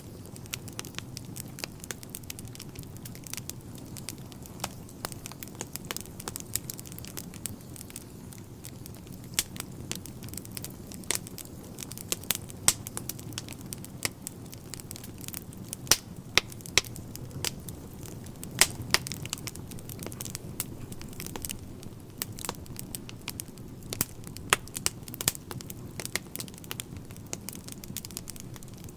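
Wood fire burning in a fireplace: a steady low rumble of flames with frequent irregular crackles and pops of the burning logs.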